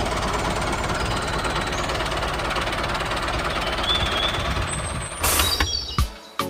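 Tractor engine running with a fast, steady knocking rattle, which cuts off about five seconds in. A brief burst of hiss and a few sharp clicks follow near the end.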